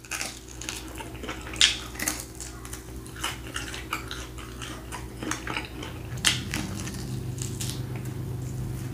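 Close mouth sounds of biting and chewing a grilled beef rib: irregular wet clicks and crunches as teeth tear the charred meat off the bone, with two louder crunches, over a steady low hum.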